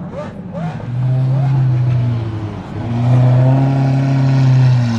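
Supercar engines running at low, steady revs, one steady note after another, with a short rev blip just after the start.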